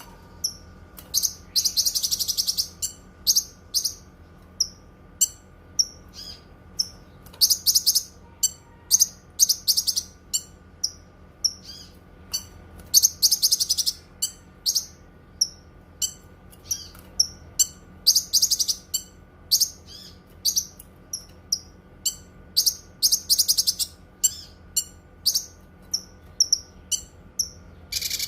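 Cucak kinoi singing: short, sharp, high chirps repeated about once or twice a second, broken about every five seconds by a louder, longer rapid trill, over a faint steady hum.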